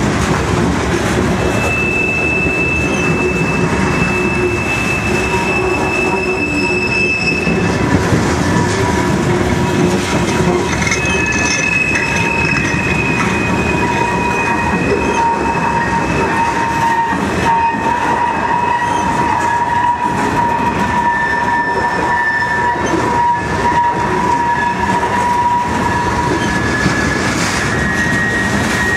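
Freight train of covered hopper cars rolling past close by, a steady rumble of wheels on rail, with long high-pitched wheel squeals at several different pitches coming and going as the cars pass.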